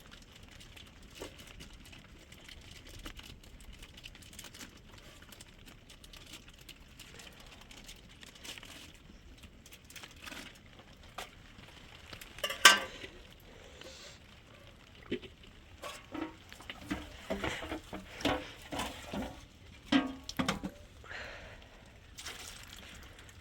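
Scattered knocks and clinks of objects being handled, like pots and utensils, with one sharp knock about halfway through and a busier run of knocks later.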